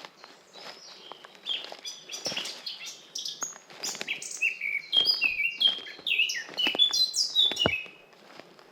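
Several forest songbirds singing and chirping in quick, overlapping phrases, busiest and loudest from about halfway through until near the end.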